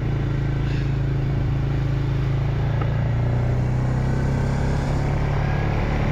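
Four-wheel-drive farm vehicle's engine running at a steady, unchanging pace while driving.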